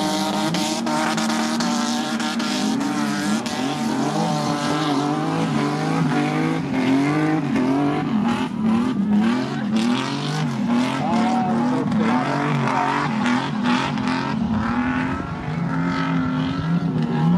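Several banger racing cars' engines running hard around an oval track, their notes rising and falling as they rev and lift off through the bends, with a run of short clatters about halfway through.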